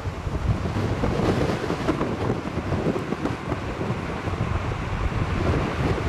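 Strong gusting wind buffeting the microphone in a 90 km/h windstorm, an uneven rumble that swells and falls with the gusts.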